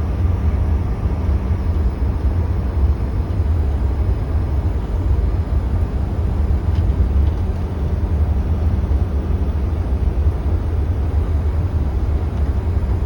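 Steady cabin noise in the front of a CRJ-900 regional jet as it taxis: a deep, even rumble from the airframe and the two rear-mounted GE CF34 turbofans at low thrust, with a faint steady hum above it, heard from inside the cabin.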